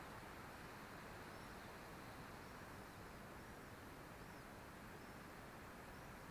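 Faint steady hiss of outdoor background with thin, high chirps from a distant small bird, repeated about once or twice a second.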